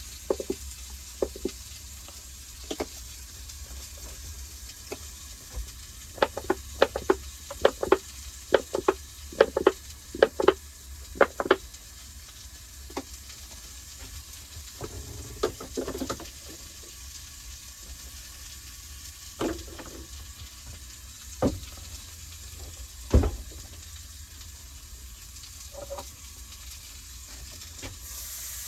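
Smokies sizzling in a frying pan, a steady frying hiss. A quick run of sharp pops and clicks comes about six to twelve seconds in, with a few more scattered later.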